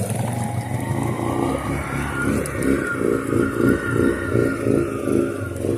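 Suzuki Eiger 400 ATV's single-cylinder four-stroke engine running under load, its note pulsing and wavering as the quad works through deep floodwater on a soft bottom.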